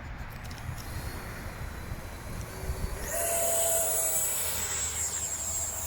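Electric ducted fan of an RC model jet throttled up for take-off: after a low rumble, about three seconds in it jumps to a loud, high, steady whine over a rush of air.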